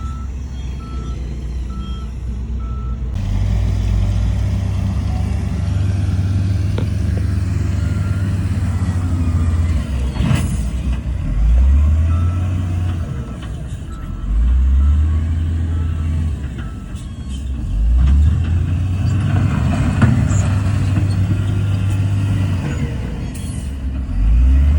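Heavy diesel earthmoving machinery running, its engine revving up and dropping back several times. A reversing beeper sounds for the first few seconds, and there is a single knock about ten seconds in.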